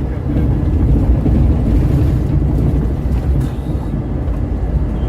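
Scania K410 multi-axle coach on the move: a steady, loud low rumble of engine and road noise.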